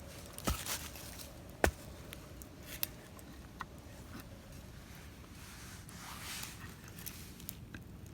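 Wood snapping and crackling: a few sharp snaps, the loudest about a second and a half in, among faint scraping and rustling.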